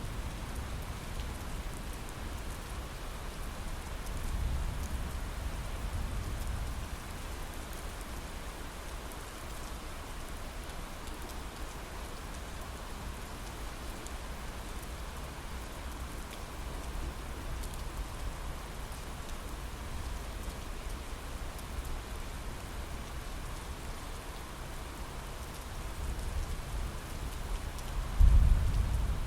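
Steady heavy rain hitting a window pane, with a low rumble of thunder about four seconds in and a louder, sudden thunder rumble near the end.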